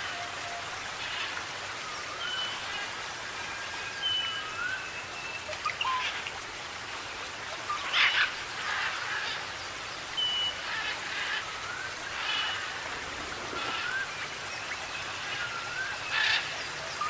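Forest birds calling over a steady hiss: repeated short rising whistles and higher level whistles, with a loud sharp call about eight seconds in and again near the end.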